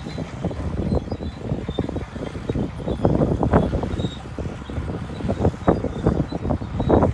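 Shantui DH17 bulldozer working, its engine running under a dense, irregular clatter and crackle that grows busier about three seconds in.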